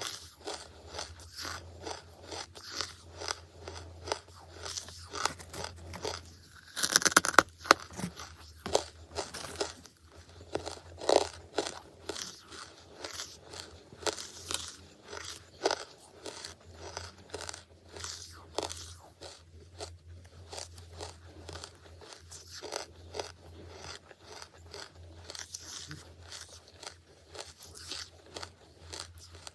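Close-miked crunching and chewing of charcoal, with a run of many short, sharp crunches. There is a louder flurry of bites about seven seconds in.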